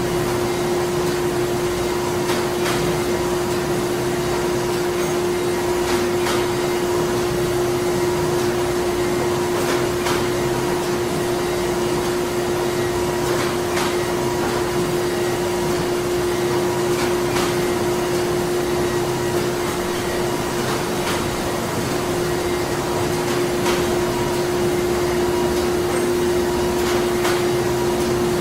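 Printing-plant machinery running: a steady mechanical hum with one constant droning tone, and faint clicks every few seconds.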